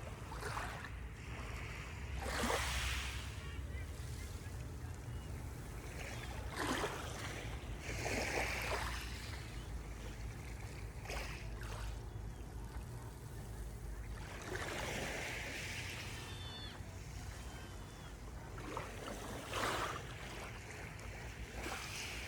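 Sea waves breaking and washing onto the shore, each wash swelling and fading every few seconds over a steady low rumble.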